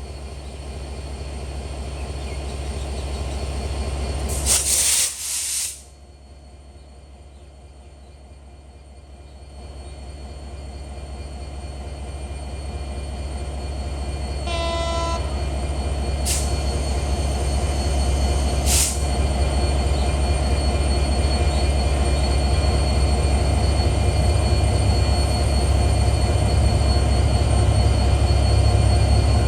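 Express passenger train approaching at speed, its rumble building, with a short horn blast about halfway through. A loud rush about five seconds in breaks off suddenly. Toward the end the heavy low rumble of the passing train grows steadily louder.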